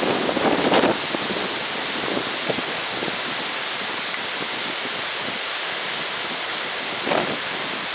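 Steady rushing noise, swelling briefly about half a second in and again near the end.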